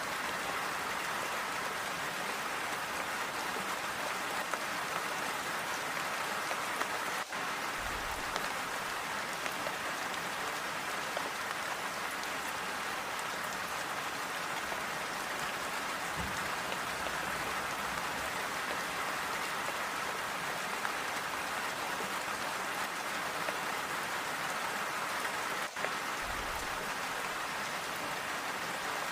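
Steady, even rainfall, a dense patter of raindrops on a surface. There are three soft, low thumps, near the start, in the middle and near the end.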